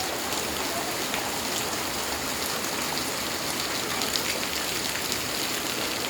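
Rain falling steadily: an even hiss with faint ticks of single drops scattered through it.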